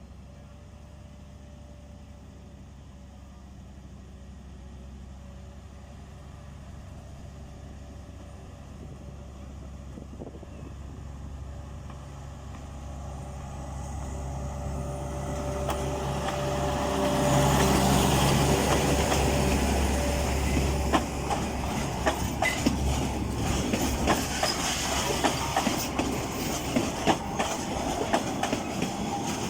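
A narrow-gauge Mk48 diesel locomotive and its train approach, the engine's steady low note growing louder for the first half. Then they pass close by, with a rapid run of wheel clicks over the rail joints in the second half.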